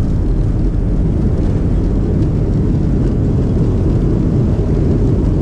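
Steady low rumble of a passenger airliner heard from inside the cabin, close to landing.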